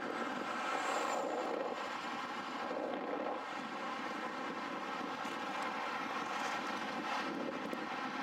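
A steady engine drone holding one pitch throughout, like a vehicle running at constant speed.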